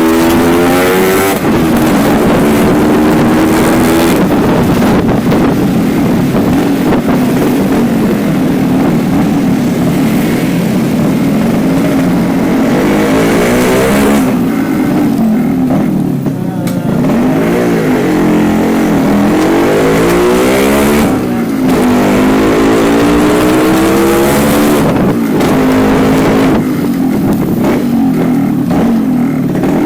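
Yamaha RX-King two-stroke single-cylinder motorcycle engine running loud through its stock silencer fitted with only the filter insert, its pitch rising and falling many times as it is revved up and down.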